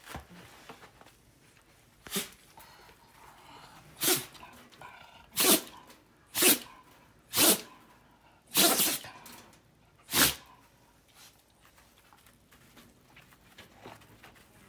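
A dog making a run of seven short, sharp vocal bursts, about one a second, from about two seconds in until about ten seconds in.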